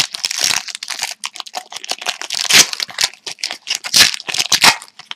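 A hockey card pack being opened by hand: the wrapper crinkling and crackling in a quick irregular run of sharp clicks and rustles as it is torn open and the cards are pulled out.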